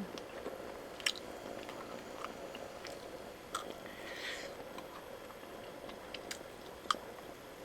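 A person chewing food, with a few sharp clicks and one short rustle-like sound about four seconds in.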